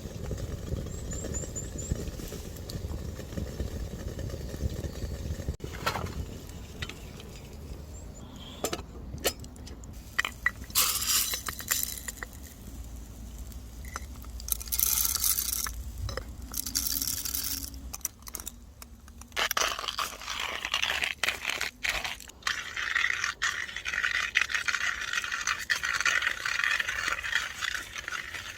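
Camp cooking noises: a utensil scraping and clinking against a pan, with several short bursts of hissing in the middle and a steadier hiss for the last third.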